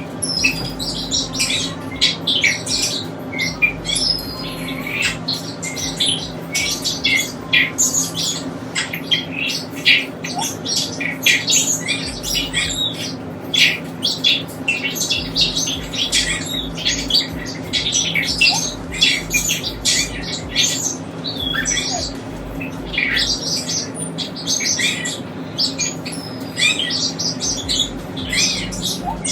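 Pet cockatiel and other caged birds chirping and squawking in a rapid, continuous stream of short high calls, over a steady low hum.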